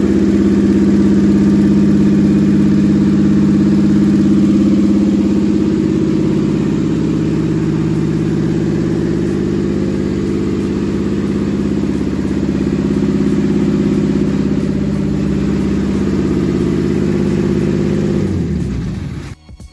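Toyota 4GR V6 engine running steadily on an engine test stand. Near the end the sound drops away and cuts off.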